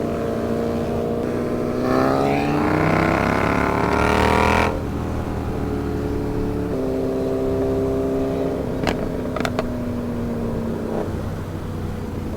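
Yamaha R7's parallel-twin engine running steadily, then revving up with a rising pitch for about three seconds before the throttle shuts off abruptly, then running steadily again. A few sharp clicks come about two-thirds of the way through.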